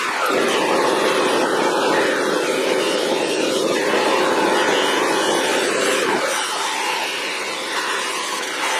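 Power buffer running with a buffing pad against the steel of a pair of locking pliers, a steady motor whir with the rub of the pad on metal. The sound eases and changes about six seconds in.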